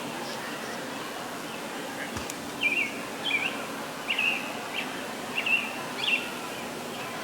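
Birds chirping: short, curling chirps repeated every half second or so over a steady background hiss.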